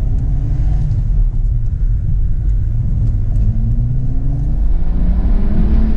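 BMW M235i's turbocharged N55 straight-six, on a stage 1 tune with an aftermarket charge pipe, accelerating hard, heard from inside the cabin: a deep rumble with the engine note climbing, dropping back about a second and a half in, and climbing again.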